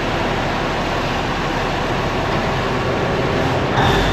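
IH Dresser TD25G crawler dozer's diesel engine running steadily, with a brief louder burst near the end.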